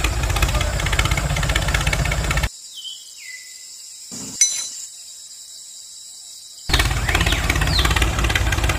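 An engine-like motor sound running steadily, cut off abruptly for about four seconds. During that gap there is a quieter stretch with a short falling high whine and a sharp click, and then the running comes back just as suddenly.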